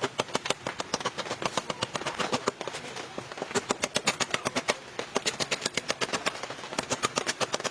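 Rapid clicking, about six to eight sharp clicks a second, in runs broken by short pauses.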